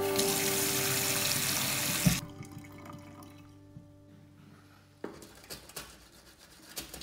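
Water running from a single-lever mixer tap into a stainless steel sink, cut off with a short knock about two seconds in. Faint scratchy brushing at the base of the tap follows near the end.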